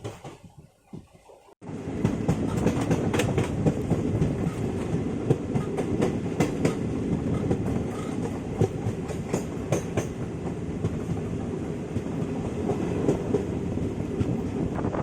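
Kanchankanya Express passenger train running along the track, a steady rumble with wheels clicking over the rail joints. It drops out briefly about a second in, then resumes.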